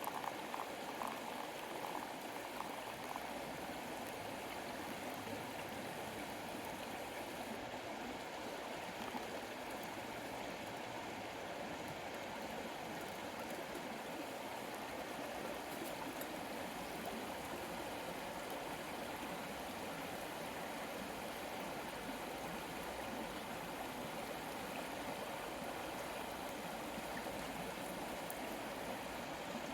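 Steady rush of a flowing river, with a few faint ticks over it.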